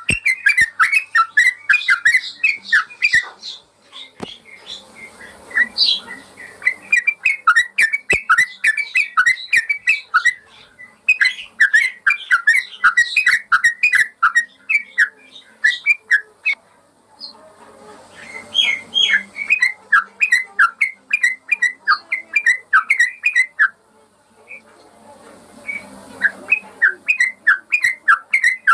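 Yellow-vented bulbul (trucukan) singing: long runs of rapid, clear chattering notes in bouts of several seconds, broken by short pauses.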